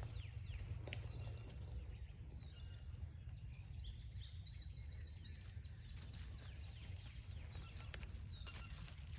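Footsteps on a forest trail under a steady low rumble, with a bird singing a quick run of short high notes that each slide downward, about three seconds in.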